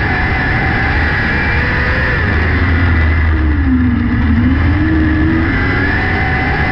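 600cc micro sprint car engine running hard at racing speed. About three and a half seconds in its pitch drops off, then climbs back up as the throttle comes back on.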